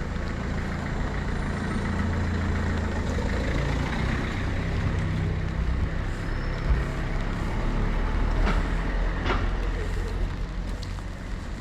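A heavy motor vehicle's engine running close by with a steady low rumble, over wet street noise. Two short sharp sounds come less than a second apart in the later part.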